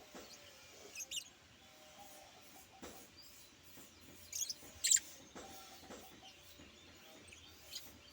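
Pet bird giving a few short, high-pitched chirps: a pair about a second in and a louder cluster four to five seconds in, with faint clicks between.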